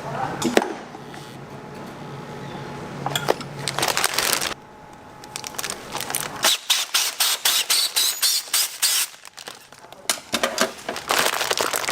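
Hard objects clicking and clattering against each other, a rapid run of sharp clicks several a second through the second half, over a steady background noise.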